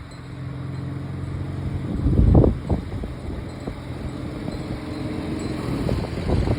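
Willys Jeep engine running steadily. About two seconds in there is a short, louder rough burst low down.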